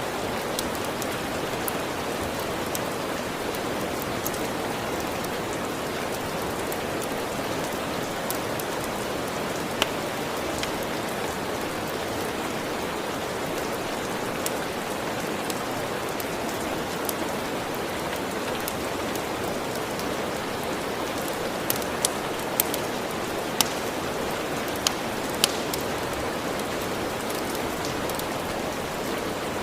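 Steady rain falling, with scattered sharp crackles and pops from a fireplace fire, a handful of louder pops coming close together about three-quarters of the way through.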